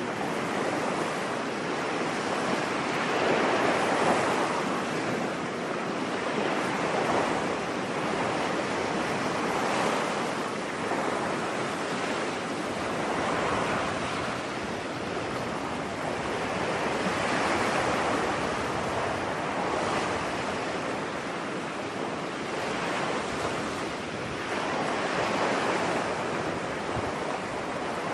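Ocean waves breaking and washing up a beach: a steady surf hiss that swells and eases every few seconds.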